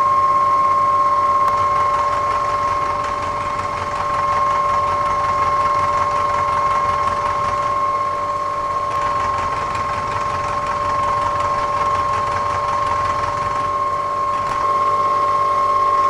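Metal shaper running and cutting a metal block: a steady mechanical whine from the drive, with the ram and feed mechanism working under it.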